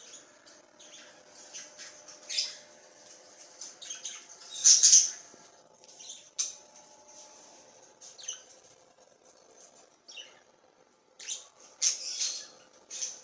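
Pet budgerigars chirping and chattering in short, scattered calls, loudest about five seconds in and again near the end, over a faint steady hum.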